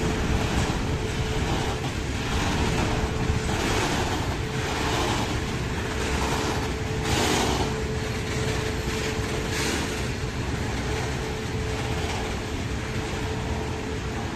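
Freight train of open-top wagons rolling past: a steady rumble of steel wheels on rail, with irregular clacks as the wheels cross rail joints and a thin, steady whine.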